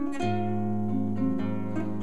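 Acoustic guitar playing a quick melody of plucked notes over a held low bass note that comes in about a quarter second in.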